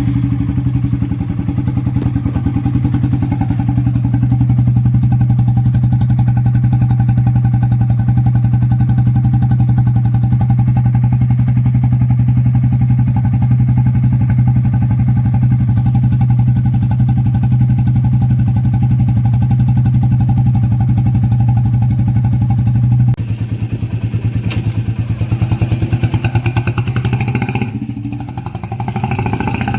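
Royal Enfield Bullet 350's single-cylinder engine running through an aftermarket exhaust, idling steadily just after start-up. About two-thirds of the way through the sound drops a little, and near the end the engine revs up briefly.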